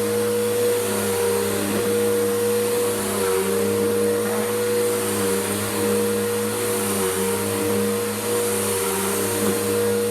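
Bissell PowerGroom Helix Rewind upright vacuum running steadily, a constant motor hum with a slight wavering in pitch over a rushing hiss of air.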